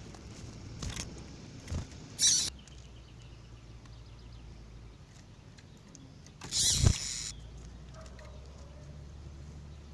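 Female double-collared seedeater (coleiro) giving two short, loud calls a few seconds apart, over a low steady hum.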